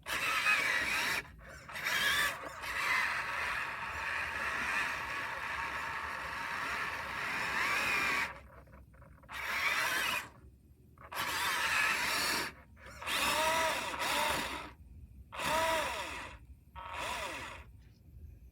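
Radio-controlled model's electric motor and gearbox whining. It runs for about eight seconds, then comes in five or six short bursts, each with its pitch rising and falling as the throttle is worked.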